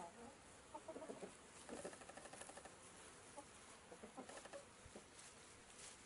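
Faint short bird calls: a few brief notes in the first two seconds and again about four seconds in, over a steady low hiss.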